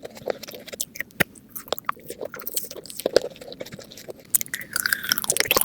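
Close-miked mukbang eating: food being bitten and chewed, with many quick crisp crackles and wet mouth sounds, in sped-up audio.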